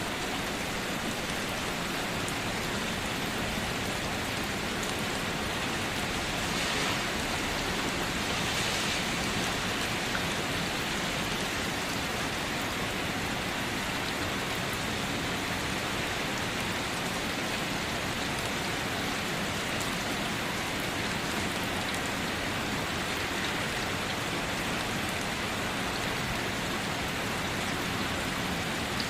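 Steady rain falling, an even continuous hiss of drops, swelling slightly twice about a quarter of the way in.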